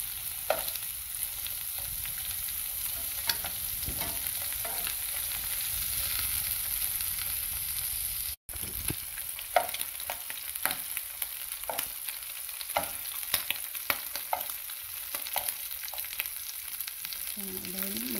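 Shrimp sizzling in oil in a frying pan, with metal tongs clicking against the pan now and then as they are turned; the shrimp are nearly cooked through. The sizzle breaks off for an instant a little past halfway.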